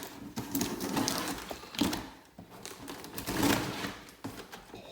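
A cardboard shipping box and its packing material being cut and pulled open by hand: irregular scraping and crinkling with light knocks.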